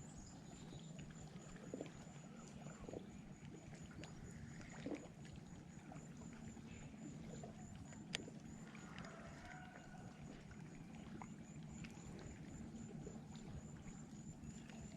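Faint, quiet lakeside ambience: a steady low rumble with a few soft clicks and knocks from handling fishing gear, and a faint high chirp pulsing about three times a second.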